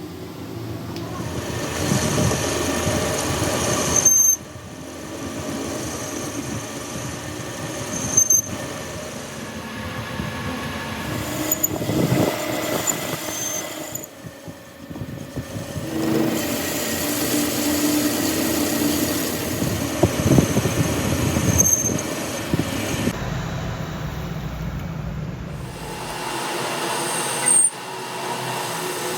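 Metalworking noise from work on a truck drive shaft, with metallic squealing and ringing, changing abruptly several times.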